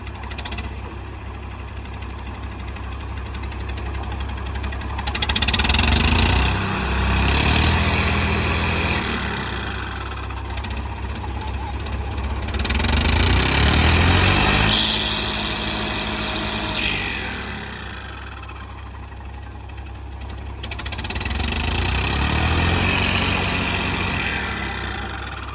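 Diesel tractor engines running under heavy load, revving up and easing off three times over a steady low engine drone.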